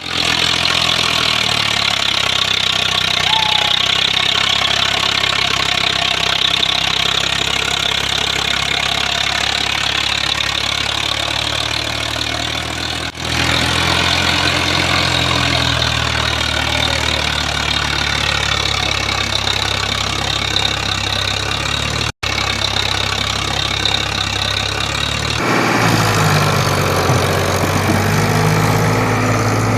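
Diesel tractor engine running steadily. The sound dips briefly about 13 seconds in and cuts out for an instant near 22 seconds. From about 25 seconds on, the engine note is deeper.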